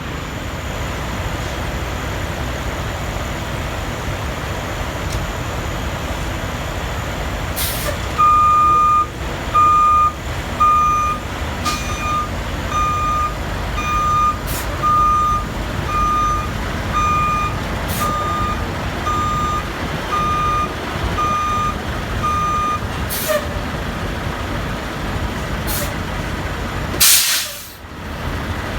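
Volvo VNL semi truck reversing under a trailer: the engine running, with the back-up alarm beeping steadily about one and a half times a second for roughly fifteen seconds. Short hisses of air from the brakes come every few seconds, and a longer, louder air hiss comes near the end.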